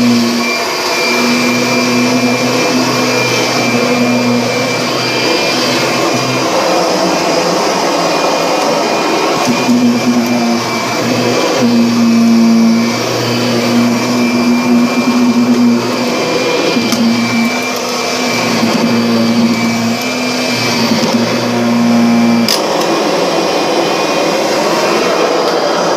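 Vacuum cleaner running steadily, with a low hum in its sound that drops out for a few seconds early on and again from about three-quarters of the way through.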